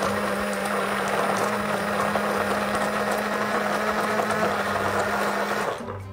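Singer electric hand blender running steadily, its motor humming as it mixes brown sugar and treacle in a bowl; it switches off near the end.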